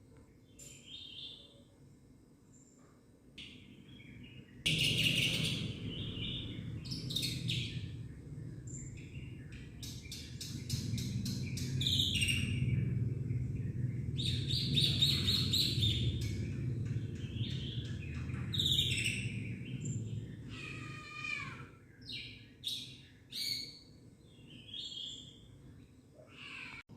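Black-winged myna (jalak putih) singing a varied song of whistles, chatters and a run of rapid clicks, filled with mimicked calls of other birds (isian).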